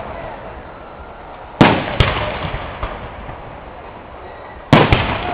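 Aerial fireworks shells banging: two sharp bangs close together about a second and a half in, and two more near the end, each trailing off in a rolling echo.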